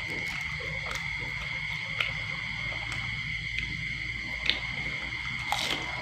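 Steady high-pitched chorus of night insects, with a low hum under it and a few short sharp clicks.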